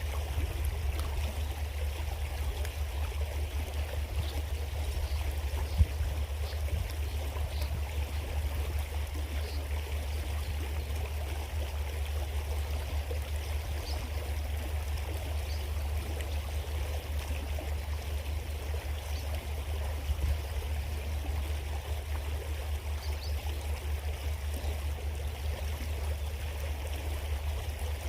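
Small creek flowing steadily over rocks, an even rushing and trickling of water with a steady low rumble underneath. A sharp knock sounds about six seconds in and a softer one about twenty seconds in.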